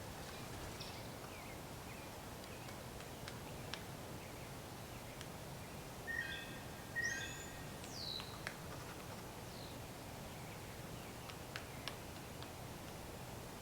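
Two short bird calls about a second apart, followed by a quick falling note, over steady outdoor background noise with a few faint scattered clicks.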